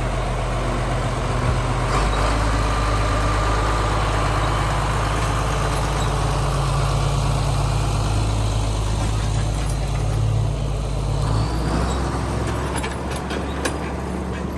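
John Deere 4440 tractor's turbocharged six-cylinder diesel engine running steadily; its note changes about eleven and a half seconds in.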